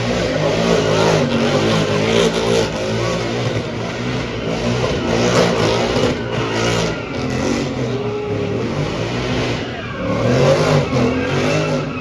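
Car engines revving hard, the pitch repeatedly rising and falling.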